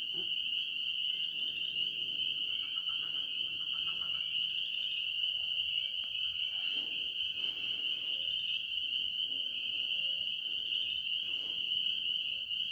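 Night chorus of calling frogs and insects: a steady, high-pitched trilling that does not let up.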